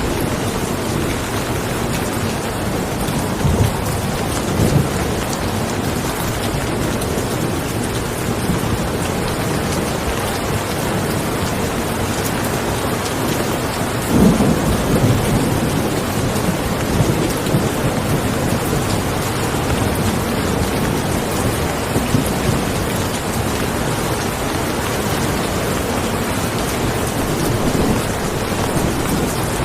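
Steady rain falling, with short low rumbles now and then, the strongest about halfway through, likely distant thunder.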